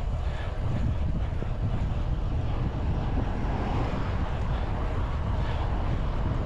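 Wind buffeting the microphone on a moving bicycle: a steady low rumble with no break.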